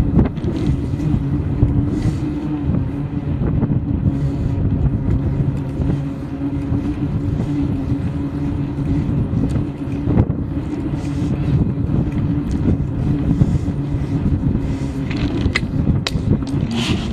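Bike riding noise: a continuous low rumble with a steady hum, scattered knocks and rattles, and a few brief higher-pitched sounds near the end.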